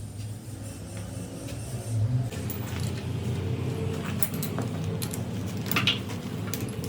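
An engine running steadily, getting a little louder about two seconds in, with scattered sharp clicks and knocks on top.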